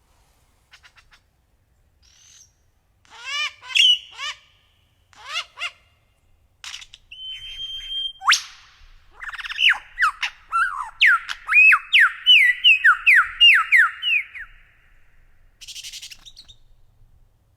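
Bird calling and singing: scattered short calls and squawks, a held whistle ending in a sharp sweep, then a fast run of repeated sliding notes lasting about five seconds, and a short buzzy call near the end.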